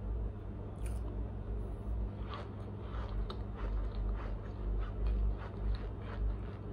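Mouth chewing a soft chunk of Argo cornstarch: a steady run of small, soft bites about three a second. It makes no crunch or squeak, as the chunk is not crunchy.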